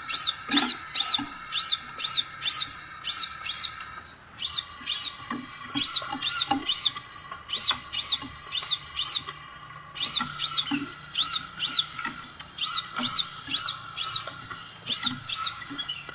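Scarlet minivet (sepah raja) calling: short, high, whistled chirps repeated about two to three a second in runs, with a few brief breaks.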